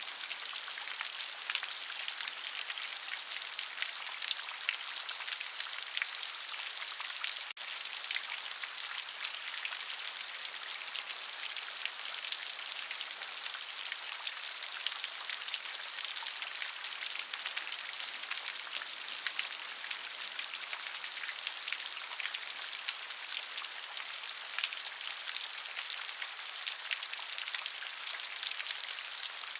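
Steady rain falling on a surface: a dense, even patter of countless small drops with a bright hiss and little low rumble.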